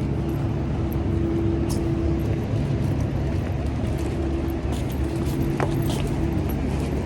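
Steady road and engine noise inside a moving car, with a low hum and a few small clicks.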